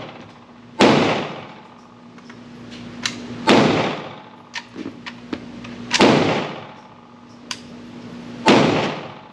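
Four gunshots about two and a half seconds apart, each with a long echo, with a few small clicks between them and a steady low hum underneath.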